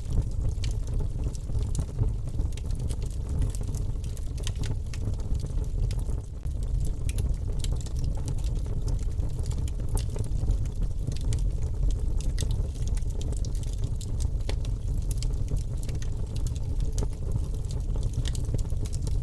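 Wood fire crackling in a fireplace: a steady low rumble of burning with frequent small, irregular pops and snaps.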